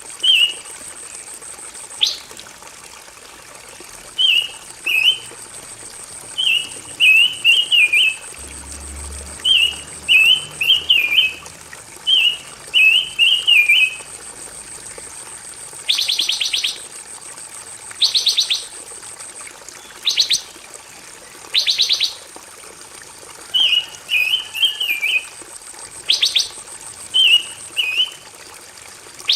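Pancawarna bird song on a mastering recording: clusters of quick high chirps repeated every second or so, changing about halfway through to short, sharp rattling trills, a little over a second apart. A faint steady high whine runs underneath for most of it.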